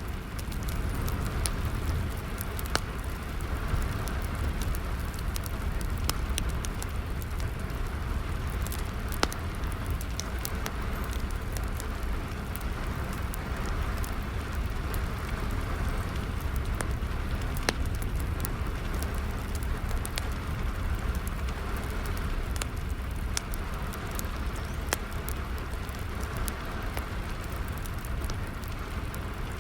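Steady rain with a wood fire crackling, sharp pops of burning wood scattered irregularly over the even hiss and low rumble of the rain.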